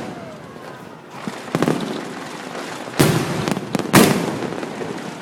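Fireworks going off: scattered crackling early on, then two loud bangs about a second apart, each followed by a fading rumble.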